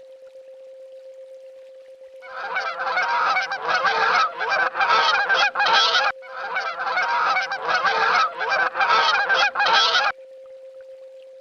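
A swan honking: two long runs of rapid, loud calls, the first starting about two seconds in, a brief break about six seconds in, and the second stopping about a second before the end.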